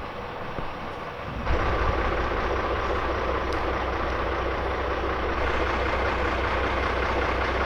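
Heavy diesel engine running steadily, most likely the boom crane truck's. It steps up suddenly about a second and a half in and holds at the louder level.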